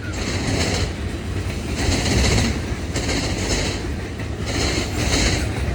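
Freight train rolling past: a steady low rumble of the cars, with a clatter of wheels over the rail that comes and goes about once a second.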